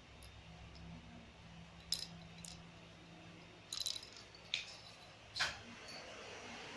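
A small bell jingling and clinking in short bursts, about five over a few seconds, as a cat knocks a toy around.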